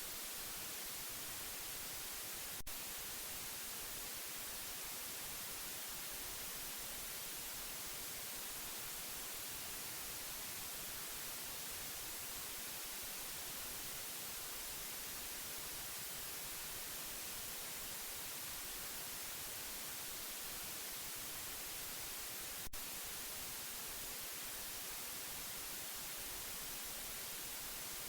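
Steady, unchanging white-noise hiss, strongest in the high range. Two faint clicks break it, one about three seconds in and one near the end.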